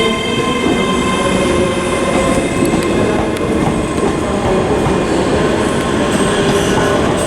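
ScotRail Class 385 electric multiple unit pulling out of the station, its wheels rumbling over the rails with a steady high whine that fades about two seconds in.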